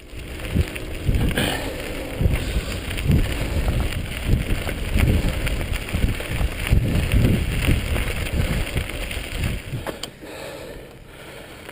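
Mountain bike riding over a dirt trail: tyre noise and rattling, with wind buffeting the microphone in repeated low gusts. It gets quieter near the end.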